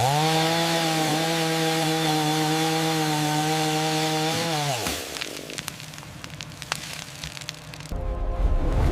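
Chainsaw engine running steadily at high speed for almost five seconds, then dropping in pitch and dying away. Scattered sharp cracks and snaps follow, and a loud low rumble starts near the end.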